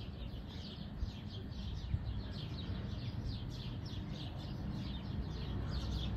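Birds chirping: a steady, rapid run of short, falling chirps, several a second, over a low rumble.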